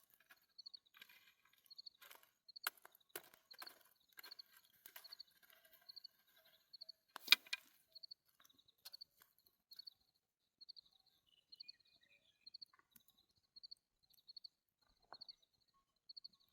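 A cricket chirping in short, high pulses, about two a second and evenly spaced. Scattered light rustles and clicks fall in the first half, with one sharp click about seven seconds in.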